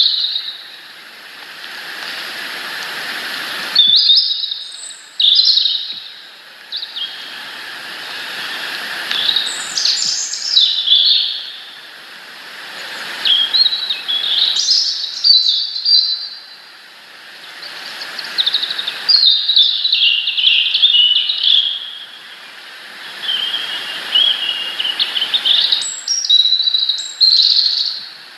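Small wild songbirds calling and singing in quick bursts of high chirps and short trills. A rushing background noise rises and falls every few seconds beneath them.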